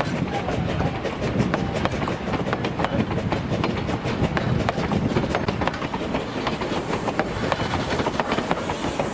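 Durango & Silverton narrow-gauge train rolling past, its wheels clicking over the rail joints in a steady clickety-clack over a low rumble. A high hiss joins about seven seconds in.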